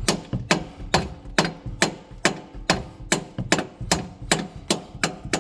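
Hammer blows on a seized exhaust pipe clamp, a steady run of sharp knocks about two a second, knocking the clamp round the pipe.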